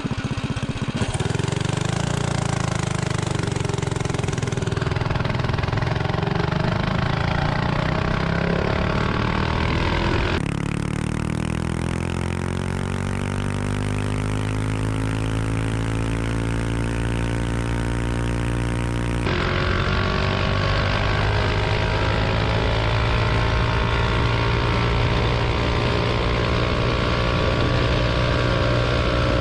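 Predator 212 Ghost single-cylinder four-stroke engine with a stage-2 kit and header pipe, pulling a mini bike at full throttle on a top-speed run. The engine pitch climbs and then holds steady. The sound shifts abruptly twice, about a third and two thirds of the way through.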